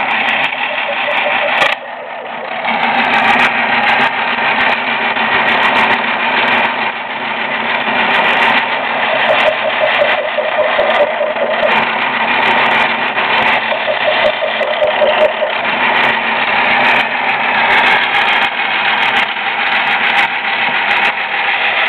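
Small 12-volt drill press motor running steadily. About two seconds in, the sound drops suddenly, then builds back up over the next second or two.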